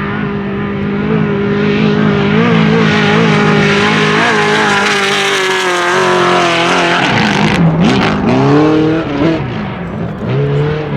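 T1 desert race truck's engine running hard at high, fairly steady revs, its pitch dropping as it goes by about six seconds in. It then revs up and down several times, with a short rush of noise around eight seconds in.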